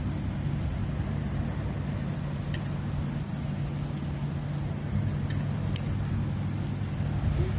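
Steady low hum with a constant drone, with a few brief faint high ticks or chirps about two and a half, five and six seconds in.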